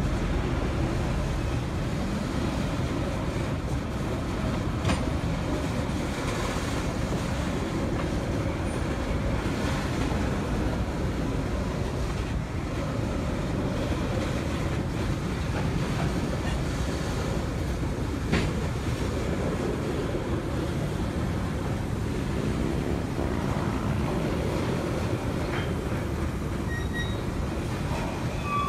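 A freight train of tank cars and covered hoppers rolling steadily past, a continuous rumble of steel wheels on rail with a couple of sharp clanks along the way.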